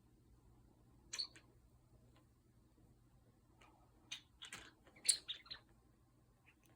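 A cat batting and pouncing on a bird toy: short scattered clicks and rattles, one about a second in and a quick flurry from about four to five and a half seconds in.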